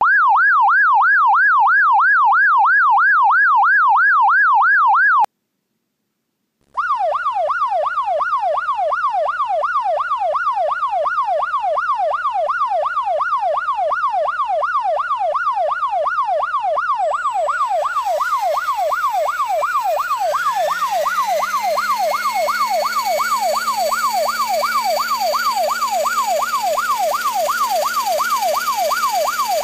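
Electronic police-style yelp siren, a fast warble of about four sweeps a second. It cuts out about five seconds in and starts again a second and a half later. About two-thirds of the way through, a second tone rises in pitch beneath it and settles into a steady hum, with hiss.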